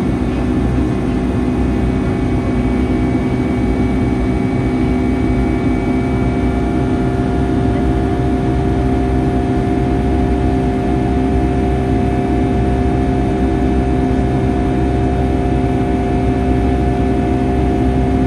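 Steady jet cabin noise of a Boeing 757-300: the engines' even hum with several constant tones over a low rumble, unchanging throughout.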